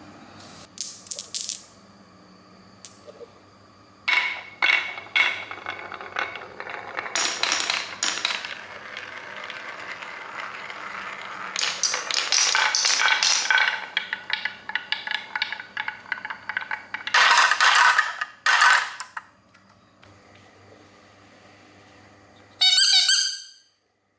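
Small plastic toy vehicles and parts rattling, clicking and scraping in uneven bursts as they are handled. Near the end comes a brief warbling electronic tone that cuts off suddenly.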